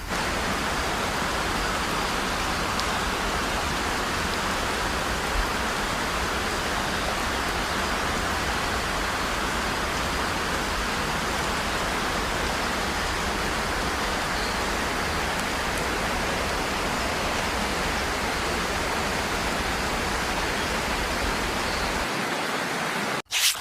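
Steady, even rushing hiss with no pitch or rhythm, like static or pouring water, holding the same level throughout and cutting off abruptly near the end.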